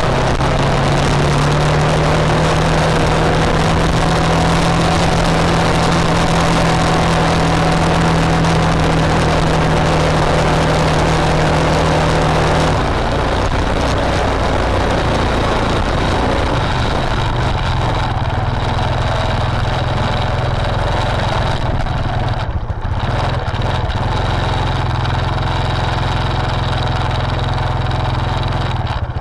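A motor or engine running steadily. About 13 seconds in it breaks off and carries on at a slightly lower pitch.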